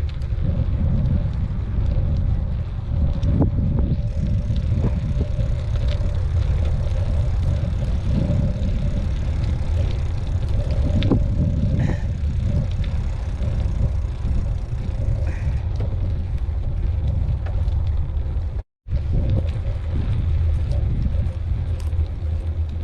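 Steady low rumble of a mountain bike ride on an off-road trail, tyres rolling and the bike rattling, with scattered small clicks and a faint steady hum; the sound cuts out for a split second late on.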